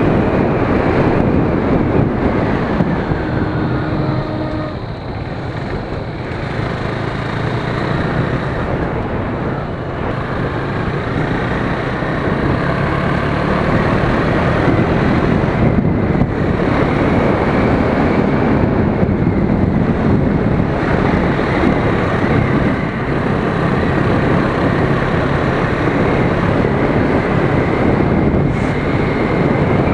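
2017 KTM Duke 390's single-cylinder engine and exhaust running under way, with heavy wind noise on the microphone. The sound drops off briefly about five seconds in, then picks up again.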